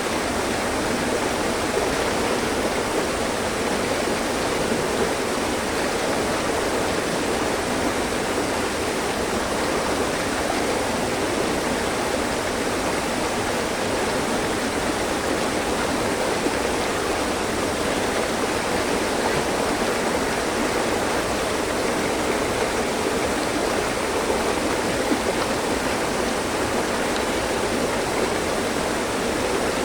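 Mountain stream flowing steadily over rocks, a continuous rushing and splashing of water.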